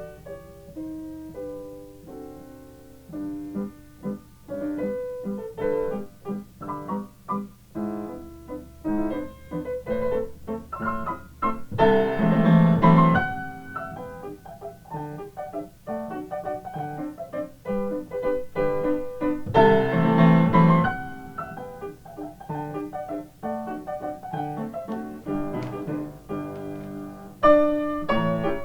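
Yamaha upright piano playing a waltz solo, with two louder passages of full chords, a little before halfway and about two-thirds of the way through.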